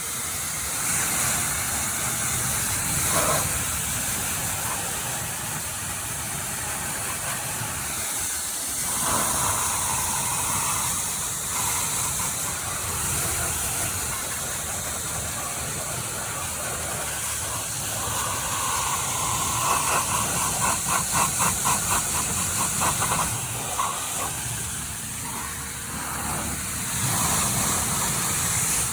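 Electric pressure washer running: the motor's steady hum under the hiss of the water jet spraying the muddy bike, the spray sound shifting as the jet moves. About two-thirds through there is a fluttering run of quick pulses, a few a second.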